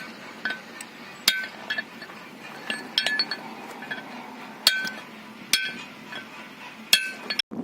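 Metal hand tools clinking and tapping against metal: about ten irregular sharp strikes, each with a short ring, over a faint steady background.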